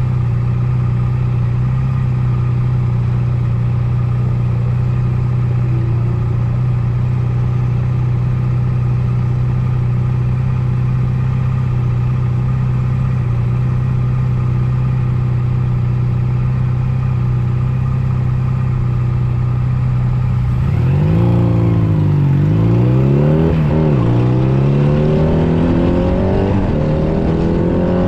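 A Honda Nighthawk 250's air-cooled parallel-twin engine holds a steady note for about twenty seconds. Then its pitch rises and falls several times as the rider works the throttle and gears, climbing steadily near the end as the bike accelerates.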